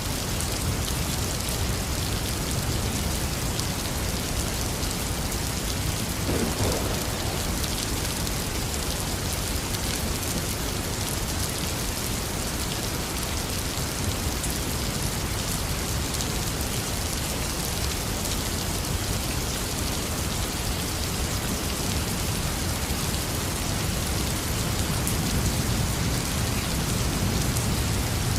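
Intense rain falling steadily, a dense even hiss of drops, with a low rumble of distant thunder swelling near the end.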